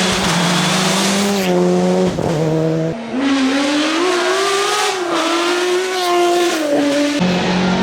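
Rally car engine at high revs, its pitch rising and falling as it is driven hard, with sudden pitch changes about three seconds in and again near the end.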